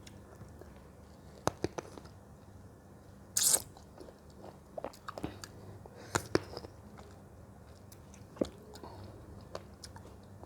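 A person biting and chewing fruit: scattered crisp crunches and mouth clicks, the loudest crunch about three and a half seconds in.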